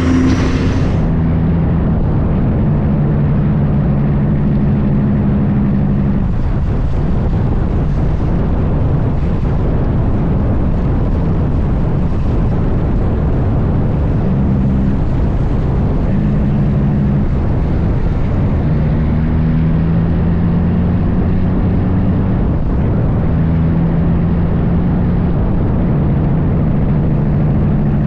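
Heavy diesel truck engine running steadily on the road, a loud continuous drone whose pitch holds and then shifts up and down as the revs change. A brighter hiss drops away about a second in.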